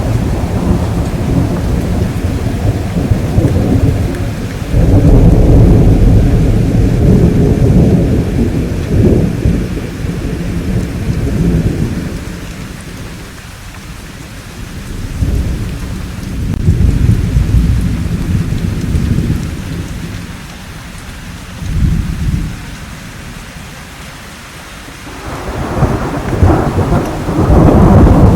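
Thunderstorm: steady rainfall under rolling thunder, deep rumbles that swell and die away several times, with the heaviest rumble near the end.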